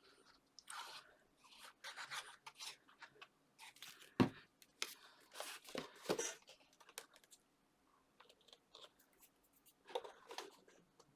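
Sheets of card being handled and pressed into place: irregular rustling and scraping of paper and card, with one sharp knock on the work surface about four seconds in.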